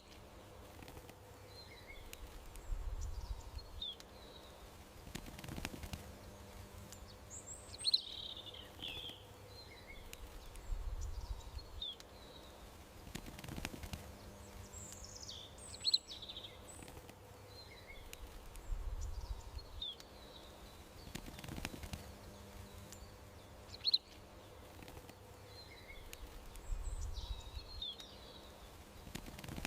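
Small birds chirping and twittering in short high calls over a faint steady hum, with a brief low rumble now and then. The same run of calls repeats about every eight seconds, like a looped garden ambience track.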